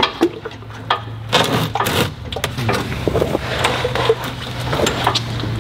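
Scattered clinks and knocks of hand work at a tractor's hydraulic fluid drain, over a steady low hum.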